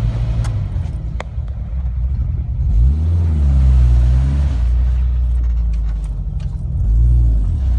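Suzuki Vitara's engine revving hard in mud, its pitch rising about three seconds in and held high for a second or two, then rising again near the end, as the stuck 4x4 tries to power its wheels out.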